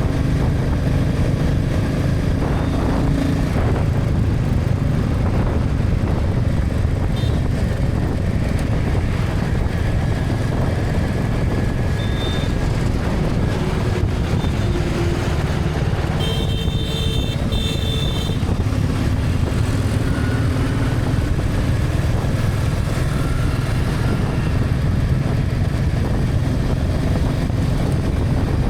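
Motorcycle running at highway speed through traffic, a steady low rumble of engine, wind and road noise. A brief high-pitched tone sounds about sixteen seconds in and lasts about two seconds.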